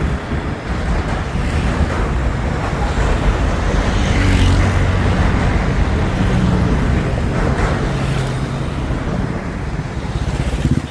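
Express train rumbling over a railway bridge: a loud, steady low rumble with a hum underneath and a few clanks from the wheels and track.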